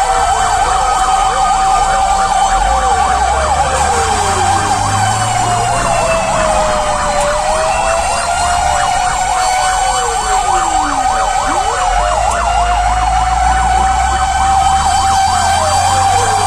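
Fire engine responding with sirens sounding: a steady high tone over a fast-warbling siren and slower rising and falling wails, with the truck's engine rumbling underneath.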